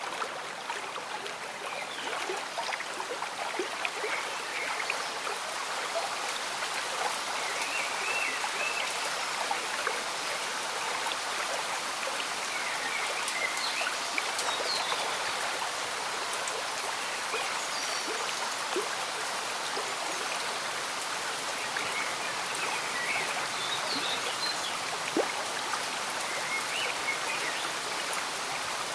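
A gentle stream bubbling with light rain falling, an even, steady wash of water sound. Short high chirps come now and then.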